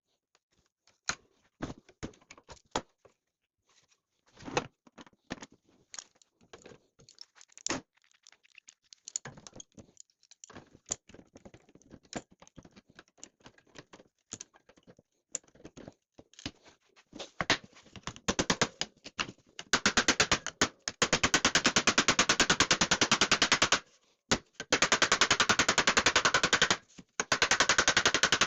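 Sheet steel being hammered over a makeshift bending bar: scattered knocks and taps at first, then from about twenty seconds in a rapid, unbroken run of metal hammer strikes in three stretches with brief pauses.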